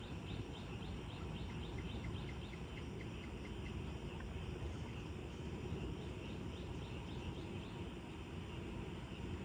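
Floodwater draining into a street storm drain, a steady low rushing. Over it, a rapid chirping, about four chirps a second, runs through the first few seconds and then fades.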